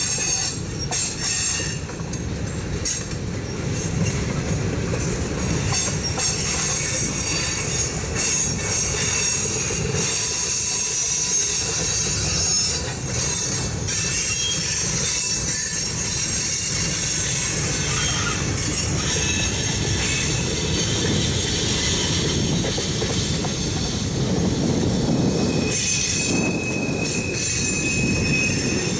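Freight cars of a mixed freight train rolling past on steel rails: a steady rumble of wheels and trucks with high-pitched wheel squeal, which turns into one sustained squeal near the end.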